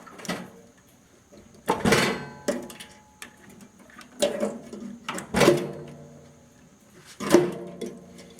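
Hands and tools working inside a gutted microwave oven's sheet-metal chassis: a handful of sharp metallic knocks and clanks, each ringing briefly, with quieter handling between them.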